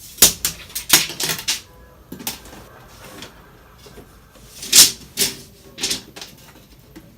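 Clicks and short rattling bursts from a metal tape measure being handled, its blade pulled out and snapped back, with a louder burst about five seconds in.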